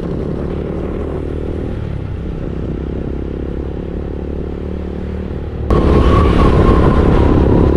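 Motorcycle running along a highway, a steady low engine and road noise. Near the end the sound abruptly jumps louder, with a steady high whine added.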